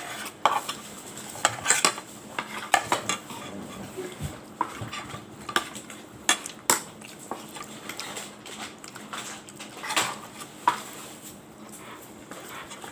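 Cutlery and dishes clinking against each other during a meal: irregular scattered clicks and clatters, busier in the first half and sparser later.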